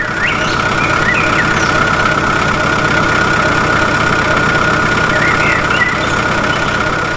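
A small motor or engine running steadily, with a constant high whine over a low hum. A few short chirps sound over it near the start and again later.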